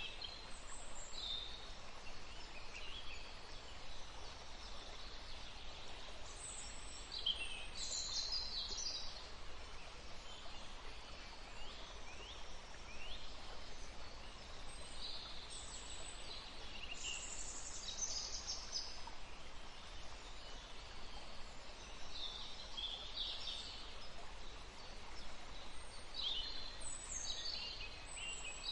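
A woodland stream running steadily, with several birds chirping and calling on and off over the water noise.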